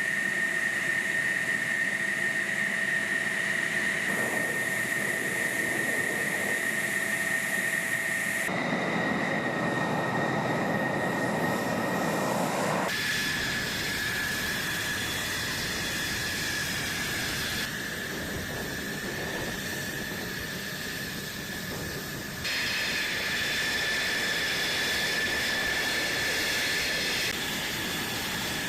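Fighter jet engine running with a steady high whine, heard through a series of clips that change abruptly every few seconds.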